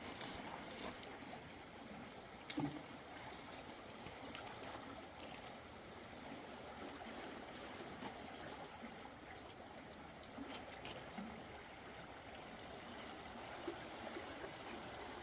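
Steady rush of a mountain stream flowing over rocks, with a few short clicks or knocks scattered through it.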